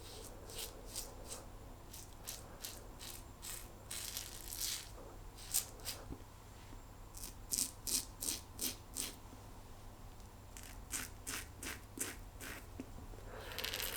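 Simbatec quad edge safety razor scraping through lathered stubble in short, quick strokes that come in runs of several, with brief pauses between the runs. This is the sound of the blade cutting beard hair around the chin.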